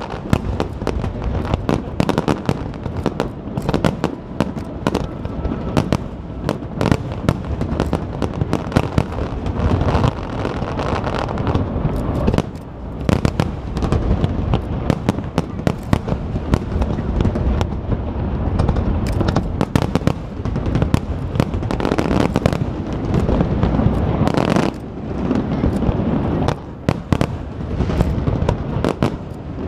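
Fireworks display: a dense, continuous barrage of bangs and crackles over a low rumble, easing briefly twice.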